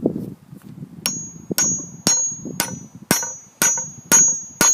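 A dull knock, then a steady run of about eight hammer blows, roughly two a second, each with a high metallic ring. The blows are driving the old wooden handle out of the eye of a splitting maul head held in a vise.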